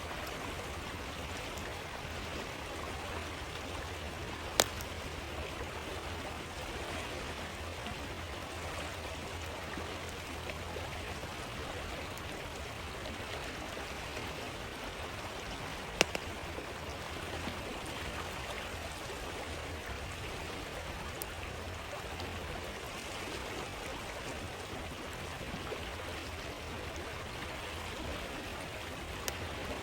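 Steady rush of a flowing stream, with a few sharp pops from a crackling campfire: two loud ones, about five seconds in and about sixteen seconds in, and a faint one near the end.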